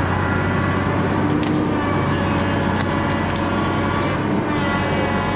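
Log skidder's diesel engine running steadily, with a few faint clicks over it.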